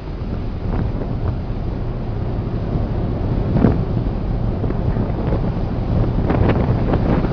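Wind buffeting the microphone over a constant low rumble of rough sea and a vessel at sea, with a few short splashes or knocks, the strongest about halfway through.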